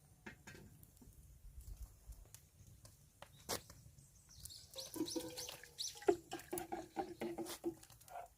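Birds calling: a run of short, quick chirps and clucking-type calls in the second half, with scattered sharp clicks throughout.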